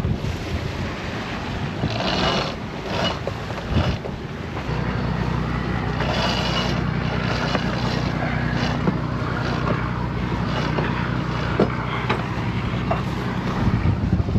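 Wind buffeting and water rushing around a sailboat underway in rough, blowy conditions, with several louder gusts or splashes in the first few seconds. About five seconds in, a steady low mechanical hum starts, runs for about nine seconds and stops just before the end.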